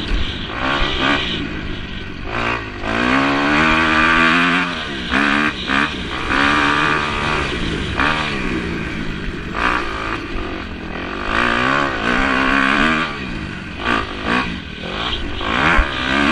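Motocross bike engines racing, revving up and easing off again and again, the pitch climbing and falling every second or two.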